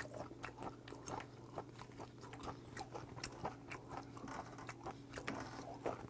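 Close-up mouth sounds of chewing raw yellowtail sashimi: a faint, steady run of small moist crunching clicks, about two to three a second, from fish with a crisp texture.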